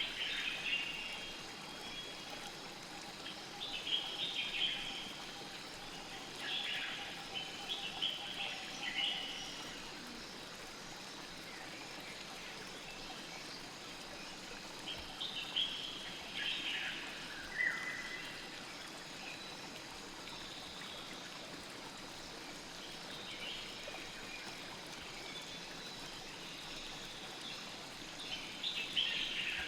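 Steady rush of a flowing river, with small birds chirping in short bursts every few seconds over it.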